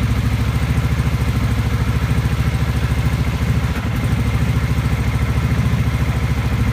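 Kawasaki Vulcan 750's V-twin engine idling steadily at quarter choke while warming up from a cold start, with an even pulsing exhaust beat.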